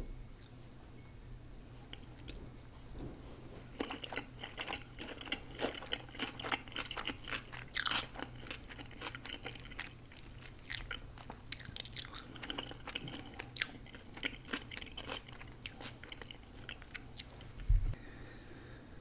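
A person chewing crunchy food close to the microphone, with dense crackly crunches through the middle stretch. A single low thump sounds near the end.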